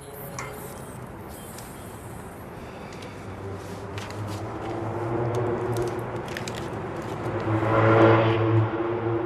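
A car's engine running outside, growing steadily louder as it draws near and loudest about eight seconds in, with faint scattered clicks.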